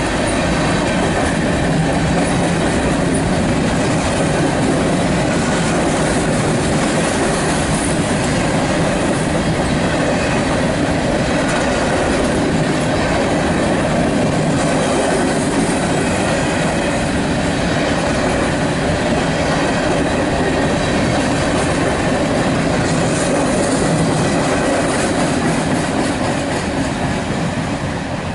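Freight cars of a manifest train rolling steadily past at speed: steel wheels clacking over the rail joints under loaded tank cars and covered hoppers. The noise fades away near the end as the last car goes by.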